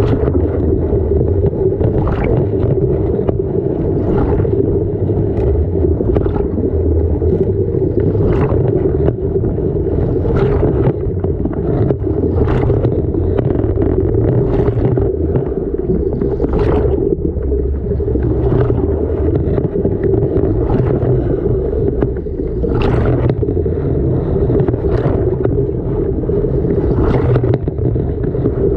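Front-loading washing machine drum tumbling a wet load, heard from inside the drum: a steady low rumble with water sloshing and gurgling, and a thud about every two seconds as the load drops.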